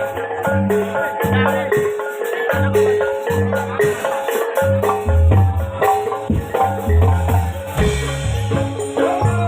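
Javanese gamelan playing: metallophones strike a quick repeating melody over deep drum and gong strokes, with a rattling jingle on top.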